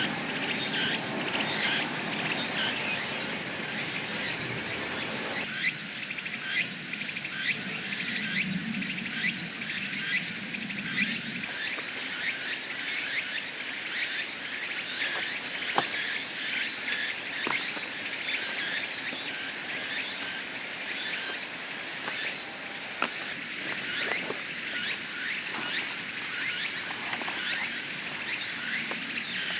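Summer forest ambience: insects droning steadily in a high pitch, with many short bird chirps and a few sharp clicks.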